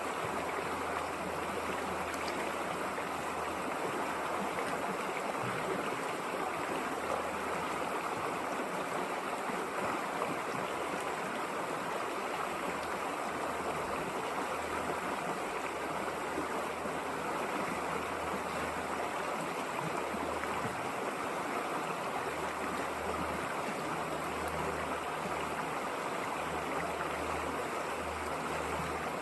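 River water flowing, a steady rushing and babbling with no change in level.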